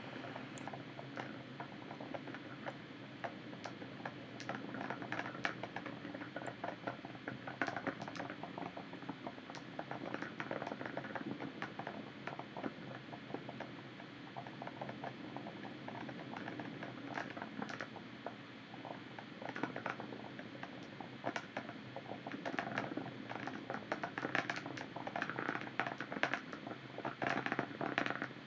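Proton-M rocket launch heard from a distance: a dense, irregular crackle of pops over a steady low rumble, growing a little stronger near the end.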